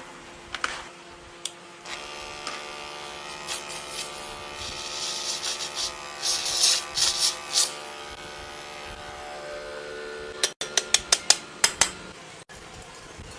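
Hand-tool work on a refrigerator compressor: a steady hum with short hissing bursts partway through, then a quick run of about eight sharp taps or clicks.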